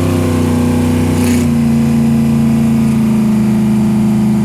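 A loud car engine running steadily close by. Its pitch shifts about a second and a half in, then holds even, with a short hiss just before the change.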